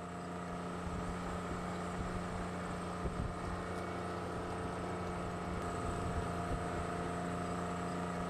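An engine running steadily, a constant hum with several even tones that does not rise or fall, growing slightly louder in the first second.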